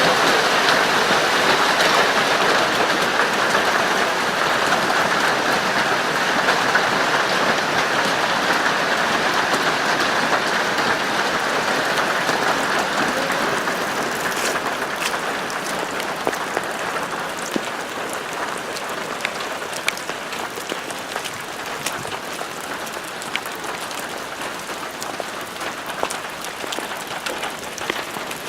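Steady rainfall, an even hiss with scattered sharp drips, slowly growing quieter, the individual drips standing out more toward the end.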